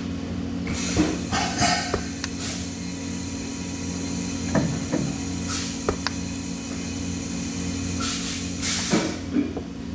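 Workshop noise: a steady machine hum, with short bursts of hiss about a second in, near the middle and twice near the end, and a few light clicks and knocks.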